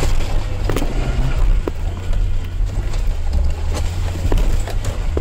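A Frontera 4x4's engine running, heard as a steady low rumble from inside the cab, with a few light clicks and knocks over it.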